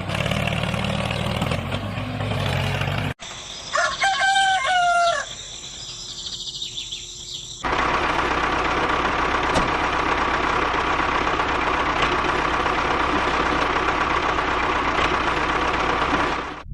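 A rooster crows once, about four seconds in. Before and after the crow there is steady, noisy background sound.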